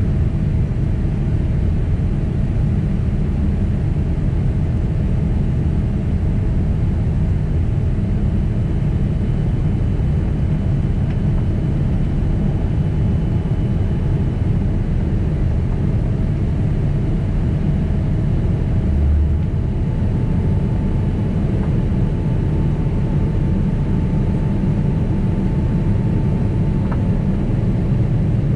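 Steady low roar of a Boeing 767's jet engines and airflow heard from inside the passenger cabin, with faint steady whine tones above it. A brief dull thump comes about two-thirds of the way through.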